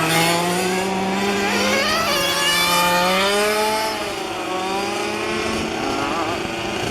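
Several 1:5-scale petrol RC cars' two-stroke engines running together, their overlapping notes rising and falling as they rev and ease off.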